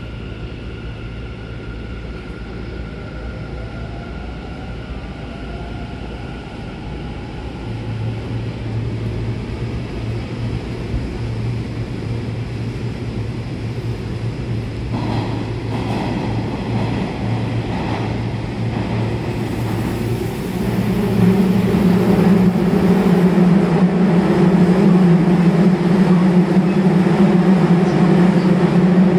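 Running noise inside an electric commuter train car travelling through a tunnel: a steady hum of motors and wheels on the rails, with a few clicks in the middle. About two-thirds of the way through it rises into a much louder, deeper rumble.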